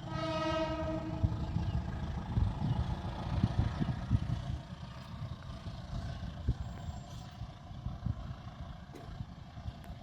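Diesel locomotive horn sounding one short blast of about a second that fades away, over a steady low rumble.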